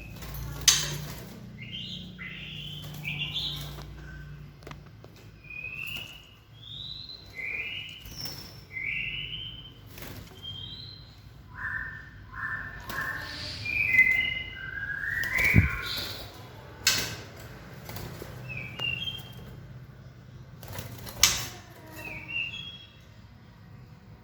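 Young white-rumped shamas calling with short whistled chirps, some rising and some falling, with scattered sharp clicks and flutters among them.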